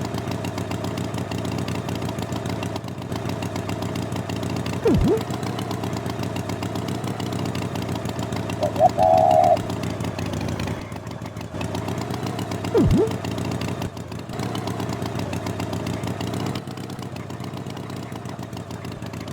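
An engine running steadily. Twice, at about five and about thirteen seconds in, a brief loud sound drops sharply in pitch, and a short higher tone sounds near the middle.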